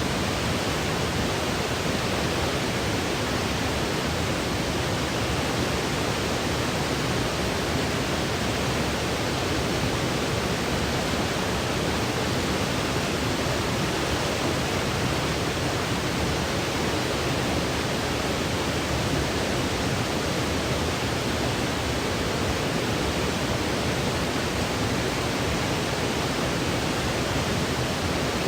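Steady, unchanging white noise: an even hiss spread across low to high pitches, with no breaks or events.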